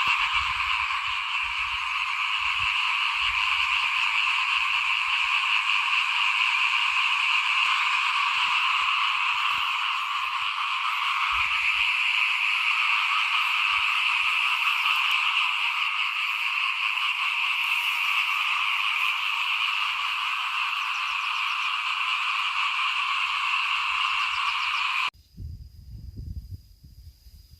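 A dense chorus of many small frogs calling together, a steady unbroken din. It cuts off abruptly near the end, leaving only faint low rumbling.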